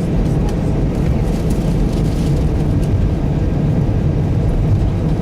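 Steady low rumble of an Airbus A319's jet engines and airflow heard from inside the passenger cabin, with a faint steady hum over it.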